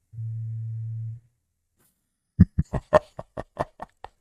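A steady low hum-like tone lasting about a second, then, after a pause, a quick run of sharp clicks, about five a second, fading as it goes: edited-in sound effects.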